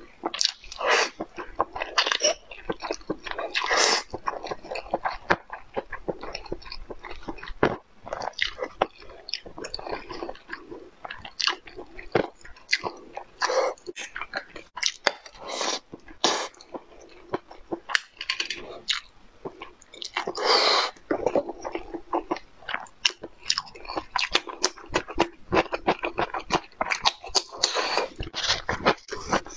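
A person chewing and crunching food close to a clip-on microphone, with many quick, irregular mouth clicks and bites.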